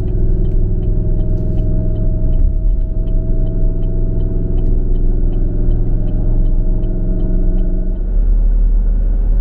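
Car interior noise while driving on a highway: a steady engine and road drone with several held engine tones, which drop away about eight seconds in and leave a deeper rumble. A faint, even ticking runs underneath.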